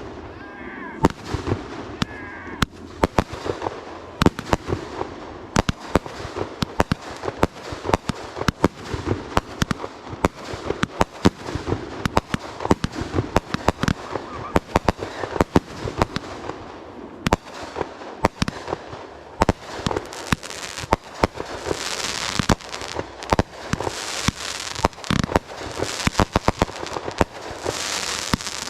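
Aerial fireworks going off in rapid succession, a dense string of sharp bangs several times a second. A hissing crackle swells in over the bangs about two-thirds of the way through and again near the end.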